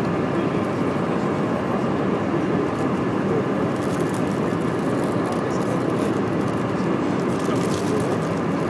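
Airliner cabin noise in flight: a steady, even rush of engine and airflow noise heard from inside the cabin.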